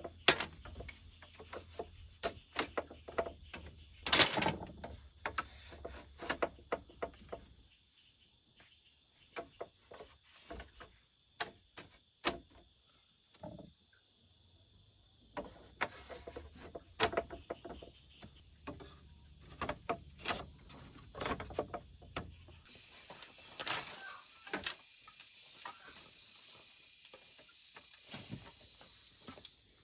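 Steady high insect chirring, with many scattered sharp clicks and knocks over it. About three quarters of the way through, a louder steady hissing drone joins in.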